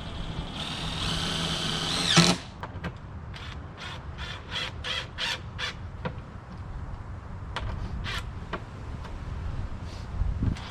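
Power drill driving a screw into wood for about a second and a half, ending with a sharp loud bite as the screw seats. After that comes a string of short, irregular bursts of clatter and scraping.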